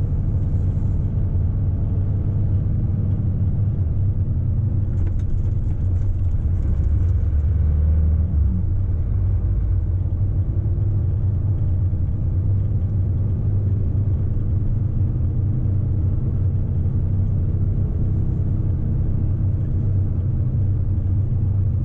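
Heavy truck's diesel engine and tyres heard from inside the cab as it drives downhill: a steady low rumble.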